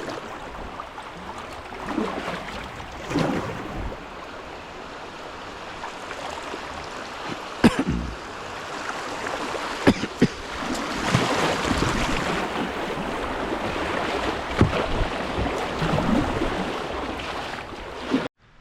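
Whitewater river rushing around a kayak, with repeated paddle strokes and splashes and two sharp knocks, about eight and ten seconds in. The sound cuts off abruptly near the end.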